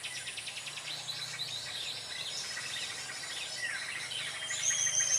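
Small birds chirping and trilling: a fast run of repeated high notes at the start, scattered chirps through the middle, and a long high whistled note near the end.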